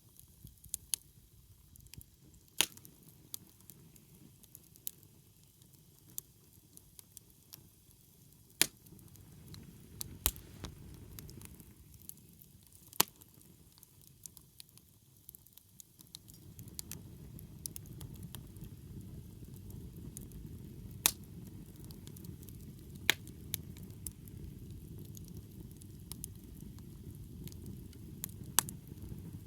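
Wood campfire burning, crackling with sharp pops every second or two. A low rushing sound beneath the crackle gets louder about halfway through.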